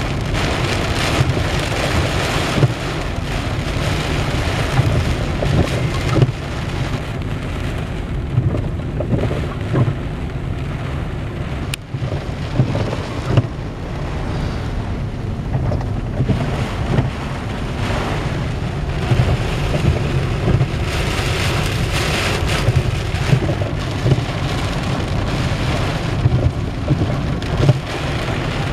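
Heavy wind-driven rain drumming on a vehicle's roof and windshield, heard from inside the cab: a dense, steady patter of drops over a constant low rumble.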